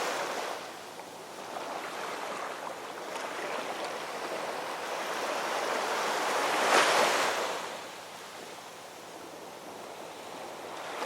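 Ocean waves washing on a shore: a wave builds, breaks with a loud rush about seven seconds in, and falls away to a softer hiss before the next one starts to build near the end.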